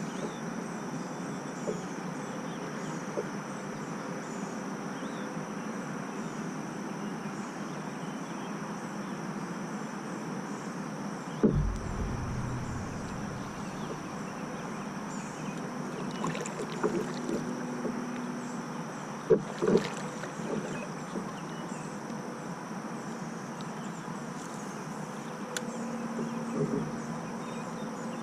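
Calm lakeside ambience with a steady high-pitched insect drone. A single thump comes about eleven seconds in, and a couple of sharp clicks around twenty seconds.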